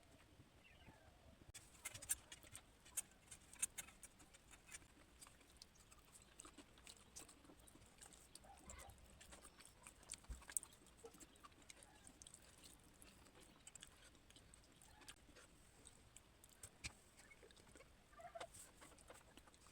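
Faint eating sounds: scattered soft clicks and small smacks of someone eating, with a few sharper clicks early in the stretch.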